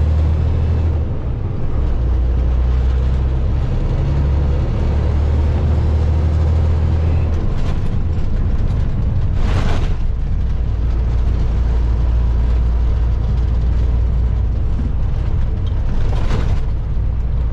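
Semi truck's diesel engine and road noise droning inside the cab while driving. The low note shifts a few times in the first half, then holds steady. Two short hisses cut through, about ten seconds in and near the end.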